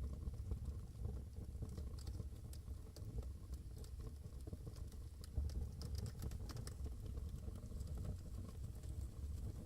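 Wood fire burning in a fireplace: a steady low rumble of flames with scattered small crackles and pops, which come thickest in the middle.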